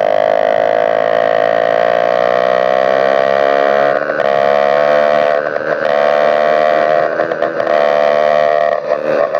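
Motorized bicycle engine with a bare exhaust pipe and no muffler, running hard at high revs with a steady, high-pitched note. The note drops off briefly a few times, around four, five and a half and seven seconds in, as the throttle is eased.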